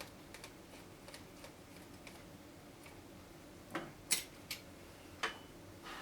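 Faint, fairly regular light ticking with a cluster of sharper clicks and taps about four to five seconds in: small tools and plastic parts being handled while a boombox is taken apart.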